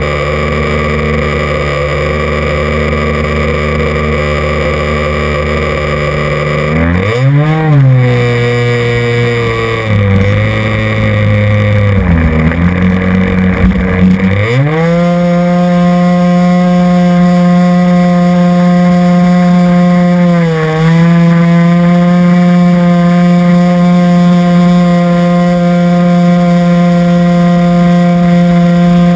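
RC model airplane's motor running steadily at low throttle, then briefly revved and eased back. About half the way in it is throttled up to a higher, steady pitch, with one short dip a few seconds later.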